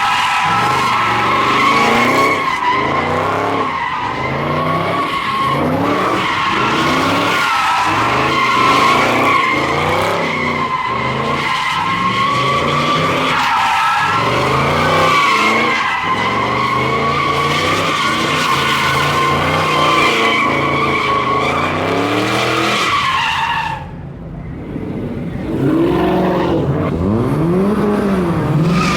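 A car sliding in a burnout or donut: its tyres squeal steadily while the engine revs climb and fall over and over. About 24 seconds in the squeal stops, and the engine revs up and drops back a few times.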